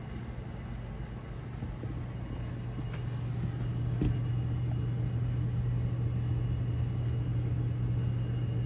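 Indoor air handler of a running heat pump system: a steady low hum that grows gradually louder, with a light click about four seconds in.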